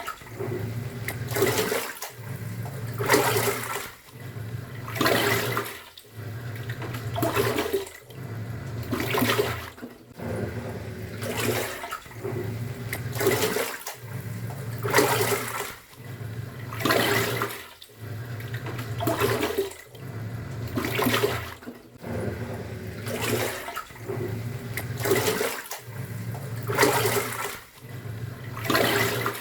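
Top-loading pulsator washing machine agitating its wash: the motor hums for a second or two, pauses, and turns again, about once every two seconds, each turn sending a swish of sloshing water through the drum.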